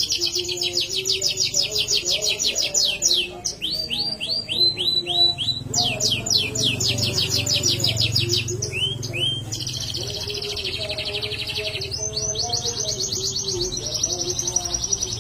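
Domestic canary singing continuously: long, very fast trills of about ten notes a second alternating with short runs of slower, downward-slurred notes. The bird is in full, vigorous song.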